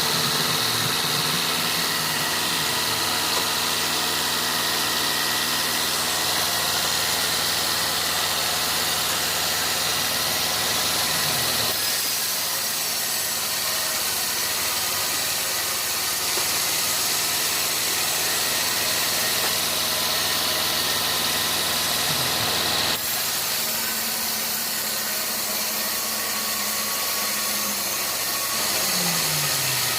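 Sawmill engine running steadily, with a short drop in pitch near the end.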